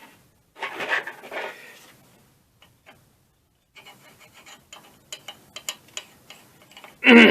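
Metal parts of a dismantled air compressor pump head being handled: a scraping rub about a second in, then a run of light clicks and taps, and a short loud scrape near the end.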